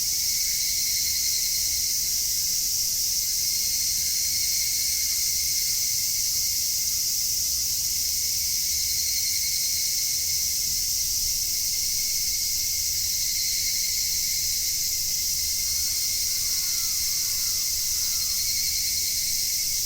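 Chorus of higurashi (evening cicadas, Tanna japonensis) and other insects calling together: a steady, dense, high-pitched drone with a thin steady whine beneath it.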